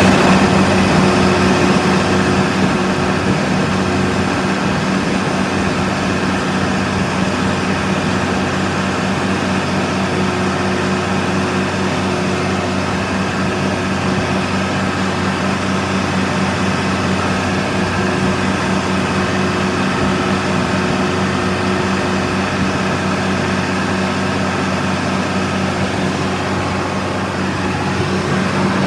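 Tractor engine running steadily at constant speed, a loud even drone with a strong low hum, as it works the field during maize sowing.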